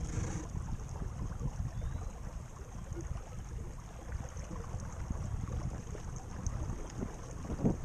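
Wind buffeting the microphone in uneven gusts over water splashing and lapping along the hull of a small sailing skiff under way.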